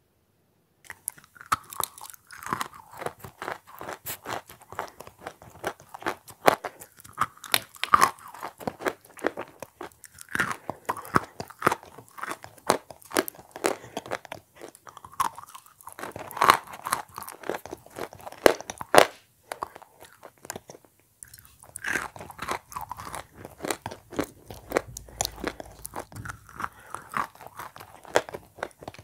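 Close-miked chewing and crunching of edible chalk coated in wet clay paste. It is a dense, irregular run of crisp crunches starting about a second in, with a couple of brief pauses.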